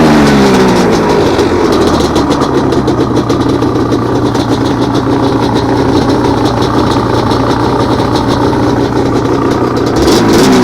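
Yamaha Banshee 350's twin-cylinder two-stroke engine, its revs falling at the start, then running steadily at low revs, and revved up and back down again near the end.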